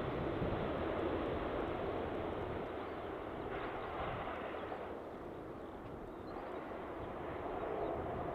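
Distant jet airliner on approach: a steady rushing rumble of engine noise that eases slightly midway, then builds again toward the end.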